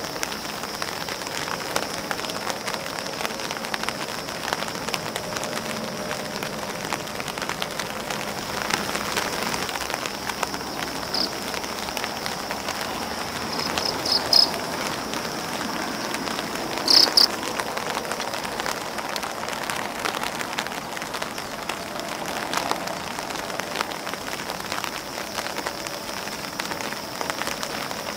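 Steady rain pattering on grass leaves and an umbrella, a dense patter of small drop ticks. A thin high whine runs underneath, and a few short high chirps stand out about halfway through.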